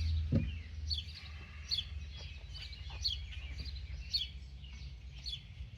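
A bird chirping over and over, short high falling chirps about once a second with fainter ones between, over a low steady hum.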